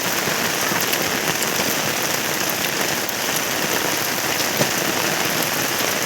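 Heavy rain falling steadily: a dense, even hiss with scattered clicks of individual drops.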